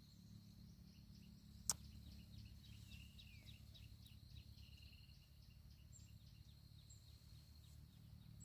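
Near silence: faint outdoor ambience with a steady thin high tone and a few faint chirps, broken by one sharp click a little under two seconds in.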